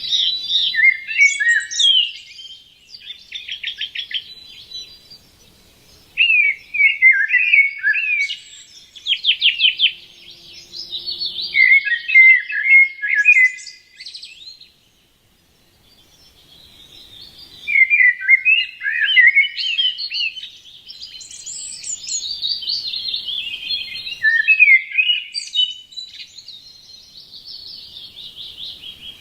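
Songbirds singing in varied phrases of quick chirps and trills, with a brief pause about halfway through.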